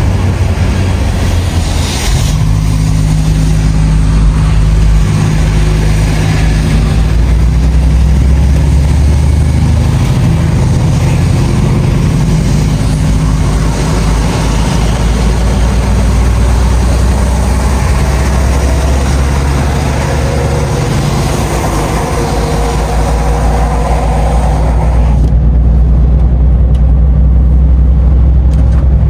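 Truck's diesel engine running while driving, a steady low drone whose pitch steps to a new level a few times.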